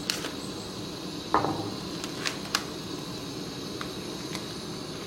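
Camp stove burner running on high with a steady rushing hiss, under the water it is heating in a metal mess kit. A few light metallic clanks of the kit being handled, the loudest a little over a second in.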